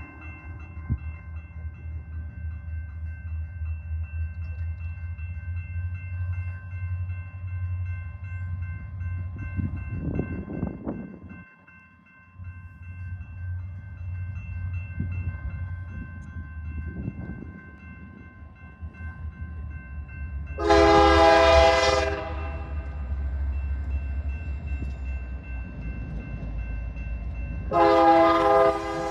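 Two EMD diesel-electric locomotives, an SD60M and an SD40-2, rumbling low and steady while hauling a freight train. Near the end the lead locomotive's air horn sounds twice: one blast of about a second and a half, then a second blast that starts a few seconds later.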